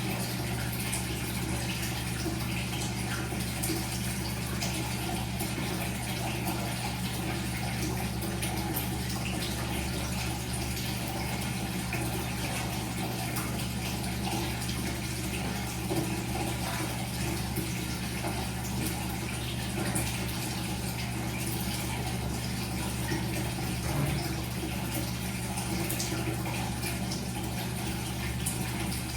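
Washing machine running steadily: a constant low motor hum under continuous water swishing in the drum.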